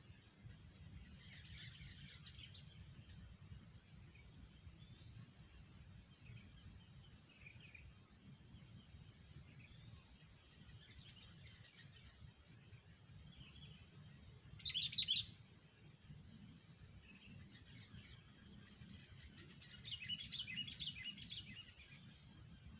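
Sooty-headed bulbuls chirping in short, scattered bursts. There is one loud burst about 15 s in and a busy run of calls around 20 s.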